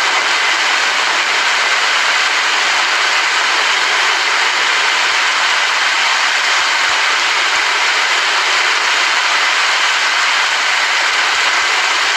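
Steady, heavy rain falling, an even unbroken hiss with no thunder.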